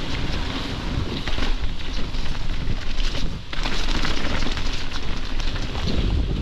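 Mountain bike riding down a wet trail: wind rushing over the microphone, with a steady crackle of tyres on wet dirt and the bike rattling. The noise dips briefly about three and a half seconds in.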